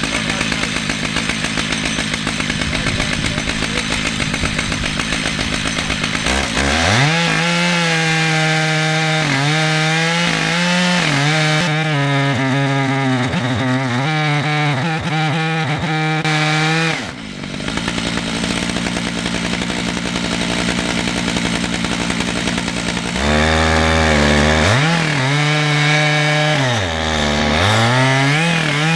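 Two-stroke chainsaw on a chainsaw mill cutting lengthwise through a red oak log, running loud near full throttle. Its pitch wavers, sagging and recovering as the cut loads the engine, and the sound drops briefly about two-thirds of the way through.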